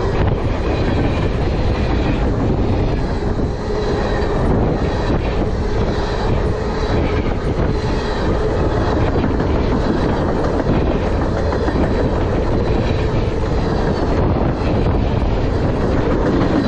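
Freight cars of a manifest train rolling past close by: a loud, steady noise of steel wheels on the rails, with a clickety-clack as the wheels cross rail joints.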